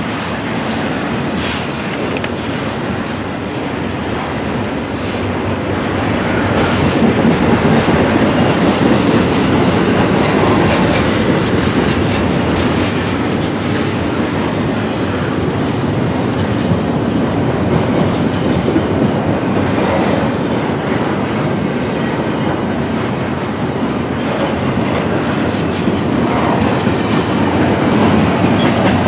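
Double-stack intermodal freight train passing at close range, a continuous loud rumble of steel wheels on the rails that swells about six seconds in.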